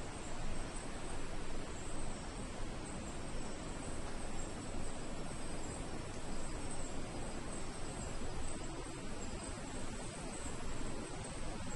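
Nocturnal insects calling steadily, with a continuous high-pitched trill over a constant background hiss.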